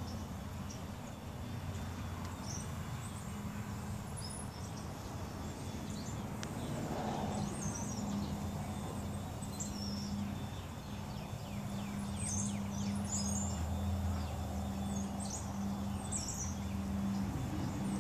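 Birds chirping here and there over a steady low hum and outdoor background noise.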